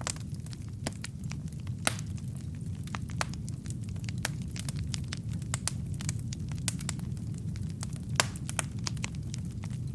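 Wood fire burning in a fireplace: a steady low rumble of flames with irregular crackles and pops from the logs, two sharper pops standing out, one about two seconds in and one about eight seconds in.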